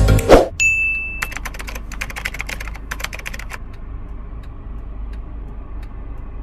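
A short high beep, then a rapid run of sharp clicks lasting about two seconds, over a low steady hum.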